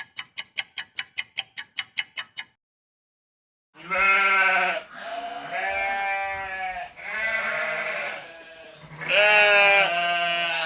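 A rapid ringing, about seven short strikes a second, stops about two and a half seconds in. After a short gap, an animal bleats four times in long, wavering calls.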